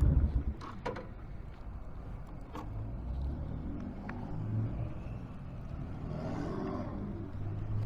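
Honda VTX1300's V-twin engine running, then cut off about half a second in. A few sharp clicks follow, over a faint low hum of passing vehicles.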